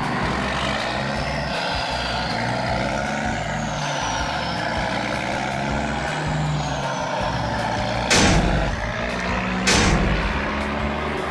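Heavy truck engine running steadily, with two loud sudden hisses about a second and a half apart near the end.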